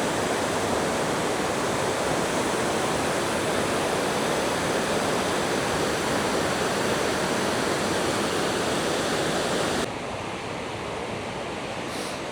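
Steady rush of falling water from a river waterfall cascade. About ten seconds in it drops abruptly to a quieter, duller water sound.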